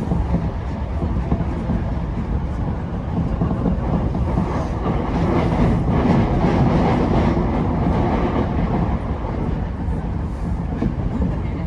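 Tokyo Metro 10000 series electric train running at speed, heard from inside the car: a steady rumble of wheels on rail with a few faint clicks, swelling louder about midway through.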